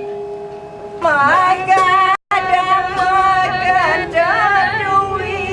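A sustained ringing tone fades, then about a second in a high voice sings a wavering, sliding melodic line. The audio cuts out briefly about two seconds in.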